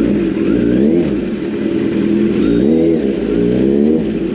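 Kawasaki Z900 superbike's inline-four engine being revved in a series of throttle blips, its pitch rising and falling again several times over a steady running note. It is very loud.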